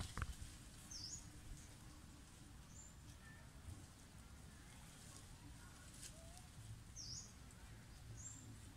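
Faint outdoor quiet with a small bird giving a short high two-note call twice: a dipping chirp followed by a brief higher note, about a second in and again around seven seconds in. A brief click right at the start.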